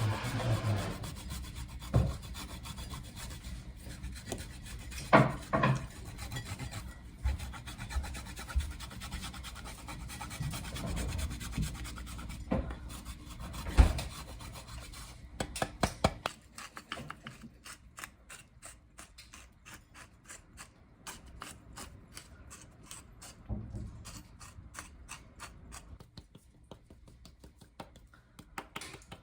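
Repeated rubbing and rasping, like filing or scraping, with a few knocks in the first half. From about sixteen seconds in it thins to a quick run of light clicks.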